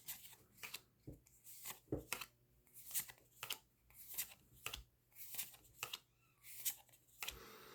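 Trading cards being handled and flipped one after another: a string of short, faint papery slaps and slides, about two a second, with a longer rustle near the end.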